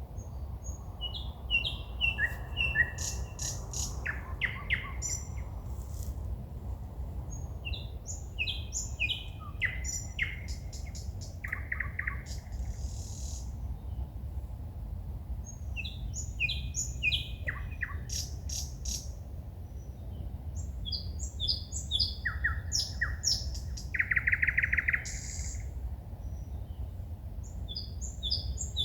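A songbird singing at night in varied phrases of chirps, whistles and fast repeated notes, separated by short pauses, with a loud buzzy rattle a few seconds before the end. A steady low rumble runs underneath.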